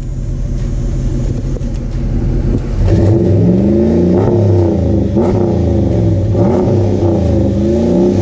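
2016 Ram Sport pickup's Hemi V8 idling through its exhaust, then revved in a series of throttle blips about three seconds in, the pitch rising and falling with each one.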